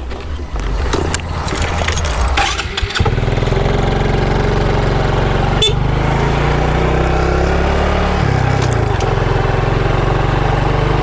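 Motorcycle engine running at a low, uneven note, then picking up about three seconds in to a louder, steady note as the bike rides on, with a brief change in engine note around eight seconds and a single click in the middle.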